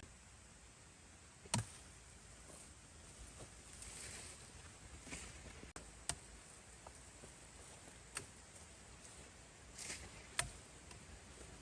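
Several sharp clicks or snaps a few seconds apart, with soft rustling between them, over a quiet background.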